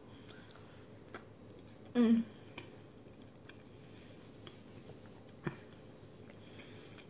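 Soft mouth sounds of someone chewing a mouthful of lasagna with closed lips, with a few faint clicks and a brief low hum-like voice sound about two seconds in.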